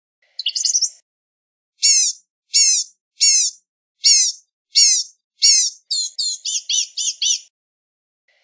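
Blue-gray gnatcatcher singing: a brief jumbled burst of thin high notes, then a series of about seven evenly spaced slurred notes, roughly one and a half a second, running into a quicker string of notes near the end.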